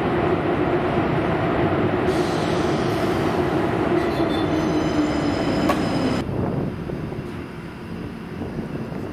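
A train running past on the tracks, a loud, even rumble of wheels on rail with a faint high squeal of wheels about four to six seconds in. The noise drops away sharply a little after six seconds in as the train clears.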